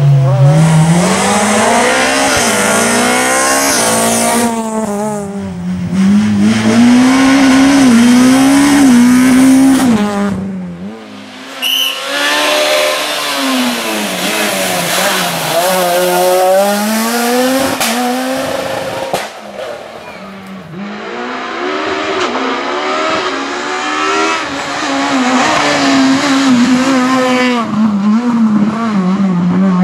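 Rally cars at full throttle on a special stage, engine pitch climbing and dropping again and again with gear changes and lifts, with tyre squeal. The sound breaks off abruptly twice and picks up again.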